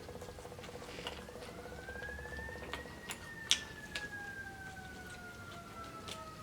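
Faint emergency-vehicle siren wailing, rising in pitch over about a second and a half and then slowly falling. A few sharp light clicks sound over it, the loudest about three and a half seconds in.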